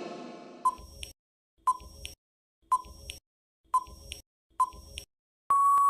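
Countdown timer sound effect: five short electronic beeps about a second apart, then one long beep of the same pitch near the end, marking time up.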